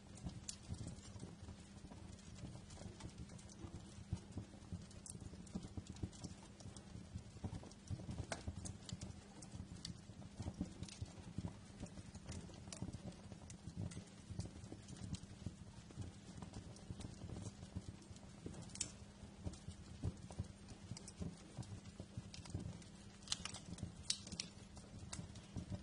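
Wood fire crackling in a fireplace: irregular pops and snaps over a low steady rumble, with a few sharper pops near the end.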